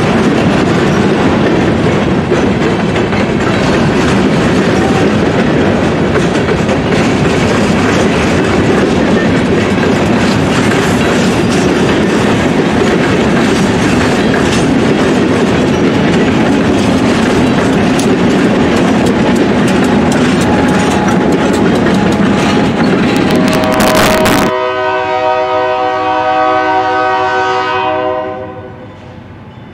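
Providence and Worcester freight train rolling past, its cars and wheels rumbling and clattering over the rail joints. About three-quarters of the way through, the rumble drops away and a locomotive air horn sounds a chord of several tones for a few seconds before fading out.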